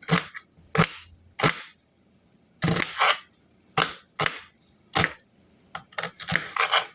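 Kitchen knife chopping on a cutting board: a dozen or so sharp chops, roughly one or two a second, with a quicker run of chops near the end.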